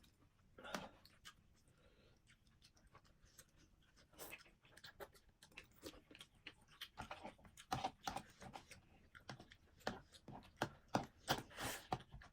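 Close-up eating sounds: chewing on a mouthful of thukpa noodles, with many short, irregular wet clicks and smacks. They are faint at first and come more often and louder in the second half.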